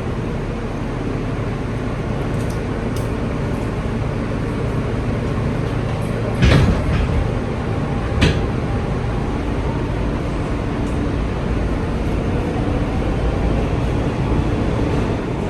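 R160 subway train running, heard from inside the car: a steady low rumble with two sharp knocks, about six and a half and eight seconds in, and a faint rising whine in the second half as the train gathers speed.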